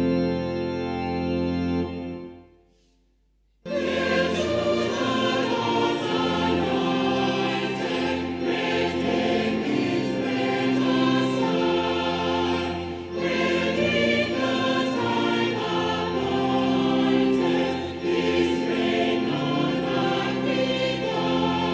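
A sustained organ chord dies away about two seconds in; after a short silence a choir starts singing a hymn with accompaniment.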